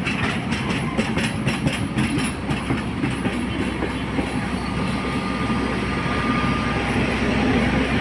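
A train running through a station: wheels clattering over rail joints in quick clicks for the first few seconds, over a steady low rumble that carries on after the clicks fade.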